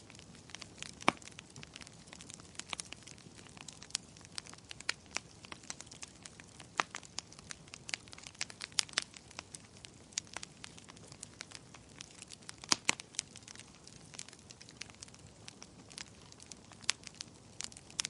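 Wood fire crackling in a fireplace: irregular sharp pops and snaps over a soft steady hiss, with louder pops about a second in and again about two-thirds of the way through.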